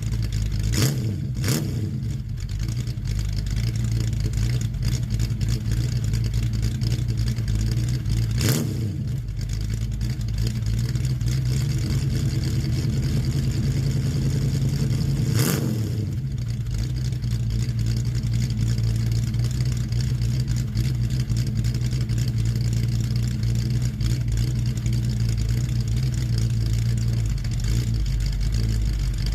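A 1970 Ford Mustang's 302 V8 idling steadily after a cold start, with a few short sharp clicks over it.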